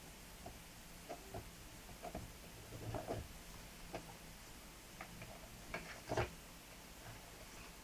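Irregular light clicks and taps of plastic toy parts being handled, over a faint steady hum. The loudest clicks come a little after six seconds in.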